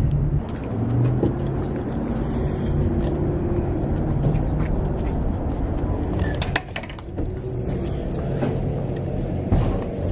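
Car engine and road noise heard from inside the cabin while driving, a steady low hum that dips briefly a little past halfway.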